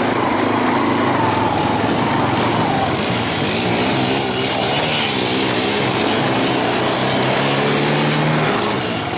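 Small engine running steadily, its pitch wandering up and down as the throttle changes.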